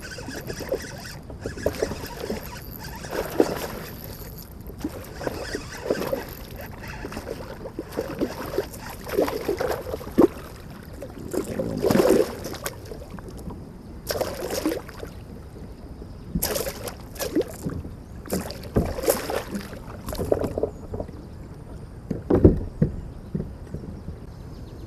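Water splashing and knocks against a fishing kayak in irregular spurts, with several sharp knocks in the middle part, as a smallmouth bass is fought and brought aboard.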